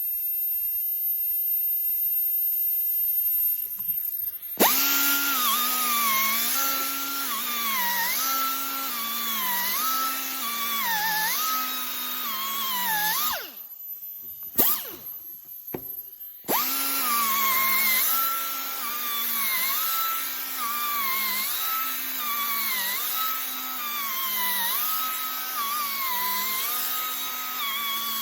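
Grinder whining at speed and pressed repeatedly against metal, its pitch dipping under each press about once a second as it lays down a grinder-tattoo swirl pattern. It stops for about three seconds midway, then starts again. Before the grinder starts there is a steady hiss.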